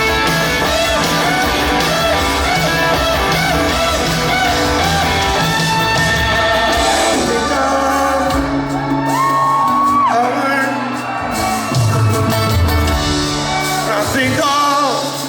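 Live rock band playing loudly in a large hall, with a voice singing and shouting over it. About eight seconds in the bass and drums thin out, leaving a wavering, gliding vocal line and a held note that falls away.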